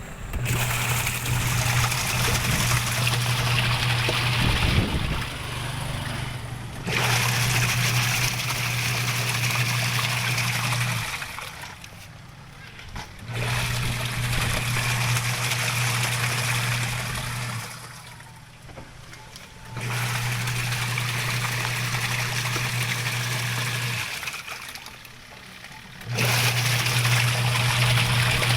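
Washing machine running a wash cycle, its motor humming with water swishing. The motor runs in stretches of several seconds and pauses for about two seconds between them, three times in all.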